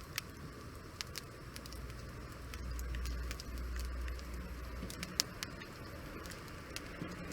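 Wood fire crackling, with sharp irregular pops and snaps over a soft hiss, and a low rumble for a couple of seconds in the middle.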